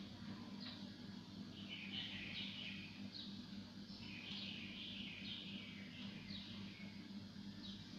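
Birds chirping: short, high chirps falling in pitch, repeating every half second or so and crowding together twice, over a faint steady low hum.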